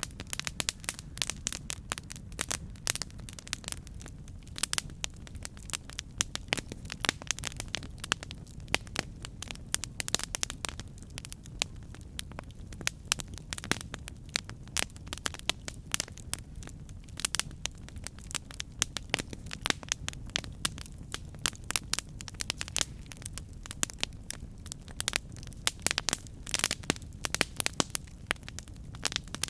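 Campfire burning: wood crackling and popping in many sharp, irregular snaps over a steady low rumble of flame.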